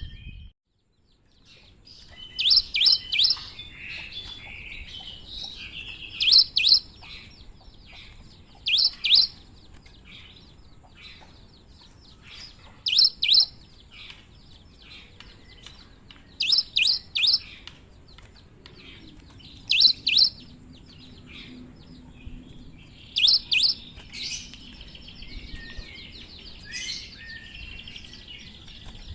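Cinereous tit (gelatik batu) singing: loud groups of two to four sharp, high notes every few seconds, with softer twittering between them. The song starts after a brief silence at the start.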